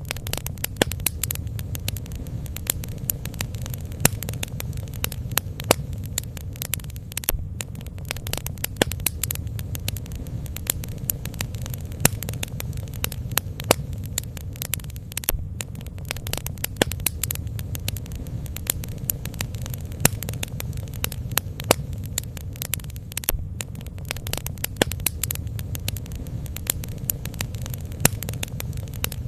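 Bonfire burning: a steady low rumble with dense, rapid crackling and popping, a few pops sharper and louder than the rest.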